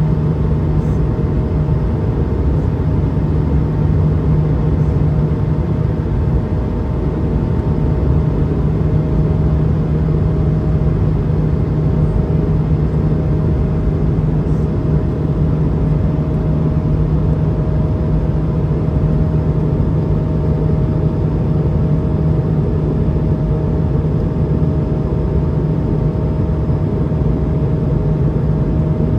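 Steady cabin drone inside an Airbus A220-300 airliner in flight: engine and airflow noise, a constant low hum with a couple of faint steady tones riding on it.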